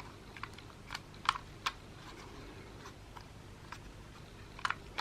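Scattered light clicks and taps, about seven in all, from the small plastic and metal parts of a defibrillator's printer module being handled, the two loudest about a second and a half in.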